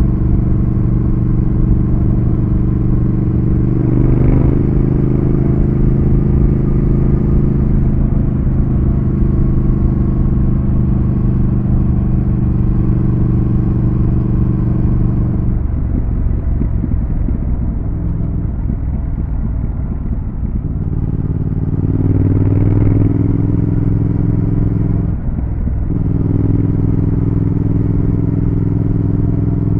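Triumph Thruxton RS's 1200 cc parallel-twin engine running under way on the road. It holds a steady note, eases off about halfway through and runs rougher, then pulls up again. There is a short drop in the note near the end.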